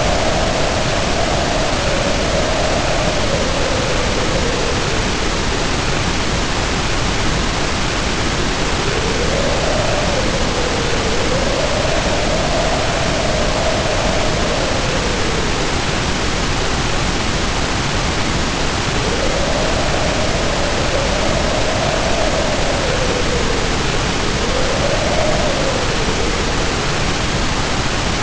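Heavy rain pouring as a loud, steady hiss, with wind howling over it in slow rising and falling moans that swell and fade several times.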